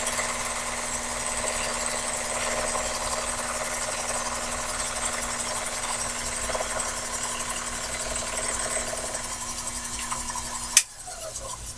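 Sherline mini lathe running steadily, turning a part between centers with the steady motor and spindle hum of a light cut. About 11 seconds in there is a sharp click and the machine sound stops, as the lathe is switched off.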